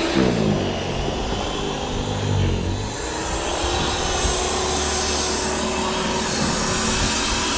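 An engine running, its pitch falling over the first second and then holding steady, with a low rumble underneath.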